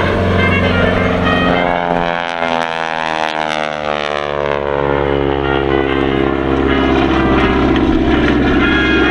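Propeller airplane flying past, its engine drone sweeping in pitch as it goes by about two to four seconds in.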